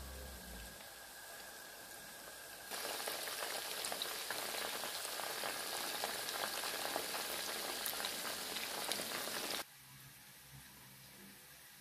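Breaded chicken wings frying in hot oil: a dense crackling sizzle that grows louder after about three seconds. It cuts off abruptly near the end, leaving only faint background noise.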